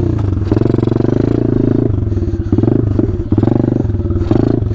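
Small single-cylinder four-stroke pitbike or minibike engine running and revved in several short bursts, its firing pulses rising and falling with the throttle.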